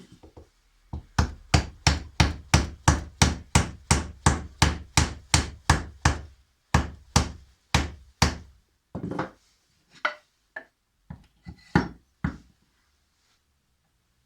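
Hammer strikes on wood: a steady run of about three blows a second for some five seconds, then slower, uneven taps that stop near the end.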